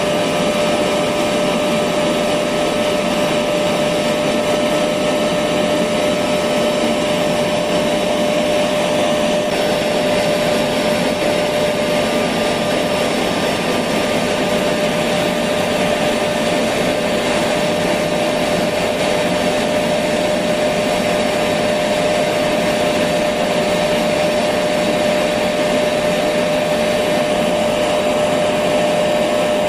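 Electric vacuum cleaner running steadily, an even whooshing hum with a constant whine in it and no change in speed.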